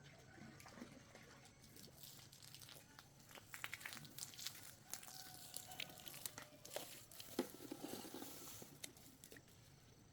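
Faint, scattered light clicks and crinkling rustles, thickest in the middle of the stretch.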